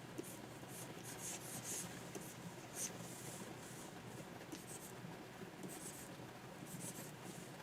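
Pen stylus strokes scratching on the surface of a Wacom 24 Pro drawing tablet: a run of short, quick strokes, some in rapid clusters.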